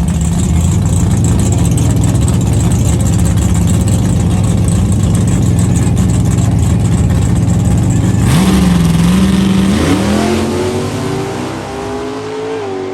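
Drag racing car engine running loud and steady, then about eight seconds in a surge as it accelerates hard, the engine pitch climbing in steps through the gears.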